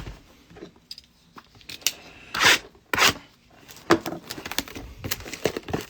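Handling of cardboard trading card boxes: rubbing and scraping of cardboard and wrapper, with two louder rustling scrapes a little before the middle and a few small clicks.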